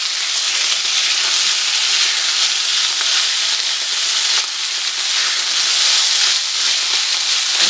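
Minced meat with grated carrot and onion sizzling steadily in hot oil in a frying pan, stirred with a silicone spatula.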